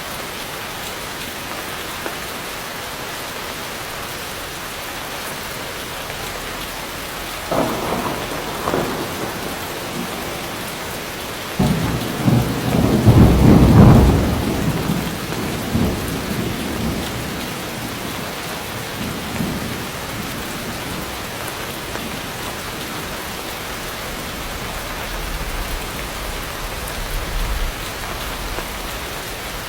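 Heavy rain falling steadily, with thunder rumbling over it: a first rumble about a quarter of the way in, the loudest peal near the middle, and a low rumble near the end.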